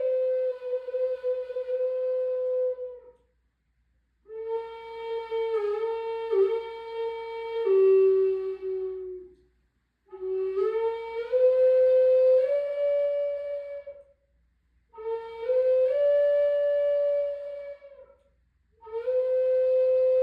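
A flute playing slow phrases of a few held notes that step up and down, with short breath pauses between the phrases.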